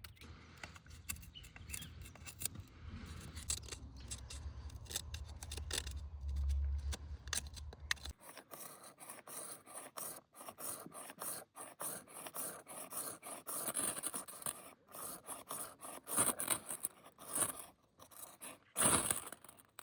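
Repeated short scraping and scratching strokes, irregular, with a low rumble underneath for the first eight seconds; the strokes turn harsher and brighter after that, the loudest coming near the end.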